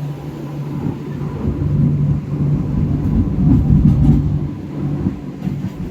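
Train running: a steady low rumble with a hum, growing louder in the middle and easing off towards the end.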